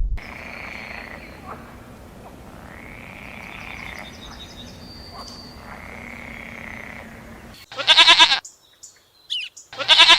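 Two loud, quavering bleats from livestock, one near the end and one just before. Before them a hissy background holds three fainter, drawn-out calls.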